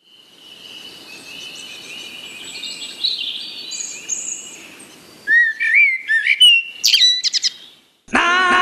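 Birds chirping, several calls overlapping, then louder, clearer whistled calls with swooping pitch about five seconds in. The calls stop suddenly shortly before music with singing begins at the very end.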